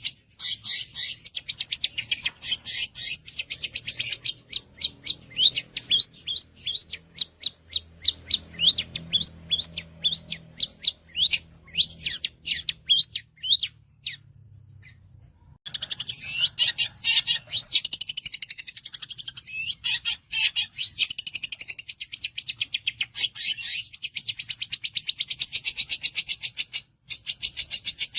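Long-tailed shrike (cendet) singing a loud chattering song. It opens with a string of sharp, repeated notes at about three a second. After a brief pause just past the halfway point comes a dense, varied rush of notes.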